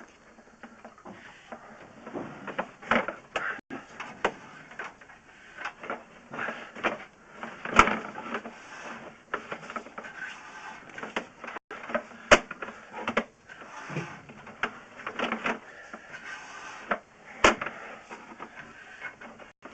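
Sewer inspection camera's push cable and reel being worked by hand, giving irregular clicks, knocks and rattles.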